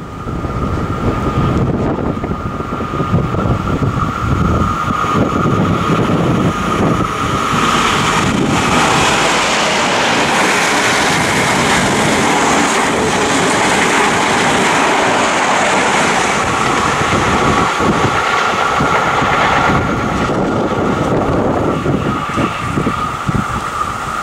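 XPT diesel express passenger train passing at speed. A steady high whine comes from the power car as it approaches. The rush of the carriages going by follows, and the whine returns near the end as the rear power car passes. Wind buffets the microphone throughout.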